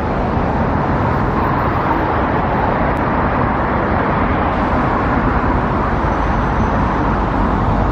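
Steady road traffic noise, an even rush of passing vehicles and tyres with no single event standing out.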